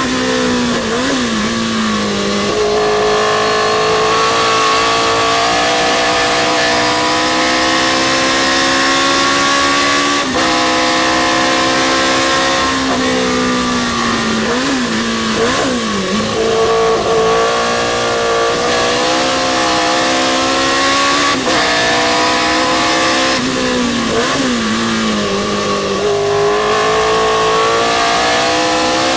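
Historic sports racing car's engine at full racing speed, revving up through the gears with sudden pitch drops at each gear change. Several times it drops in pitch with short throttle blips, as on downshifting into corners.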